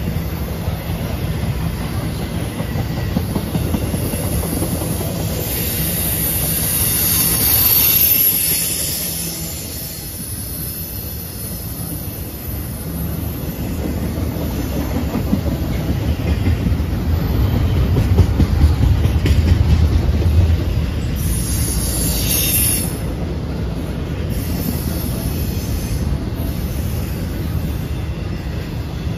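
Intermodal freight train of loaded well cars rolling past close by: a steady rumble of cars and wheels with clickety-clack over the rail joints. A high wheel squeal rises out of it twice, for a couple of seconds each time.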